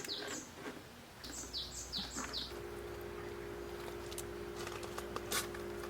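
A bird gives quick, falling chirps in short runs during the first two seconds. About a second in, a small portable electric fan starts up and runs with a steady low hum and a faint steady tone.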